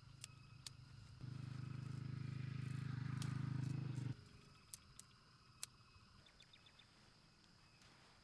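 A small motorcycle engine, likely the Honda Astrea Prima's single-cylinder four-stroke, runs with a low pulsing note, rises in level about a second in, then cuts off abruptly. A few sharp clicks follow, over a steady high chirring of insects.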